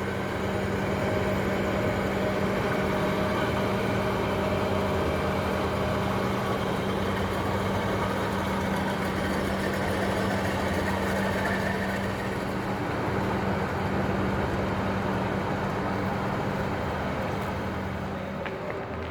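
Road vehicle driving, a steady engine drone over road noise.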